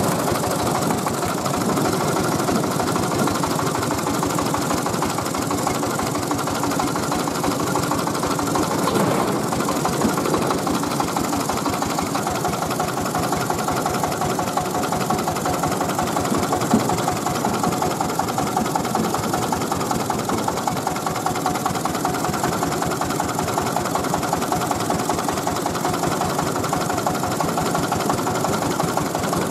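24 PK Tiger diesel engine of a mobile rice mill running steadily.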